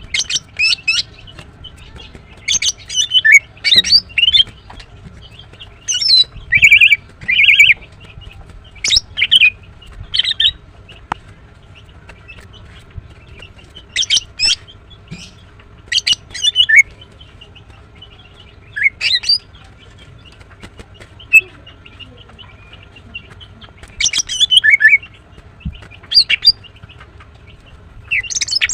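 Female greater green leafbird (cucak ijo) calling in loud clusters of short, sharp, high chirps, a flurry every few seconds with pauses between. This is the excited calling of a female in breeding condition, calling for a male.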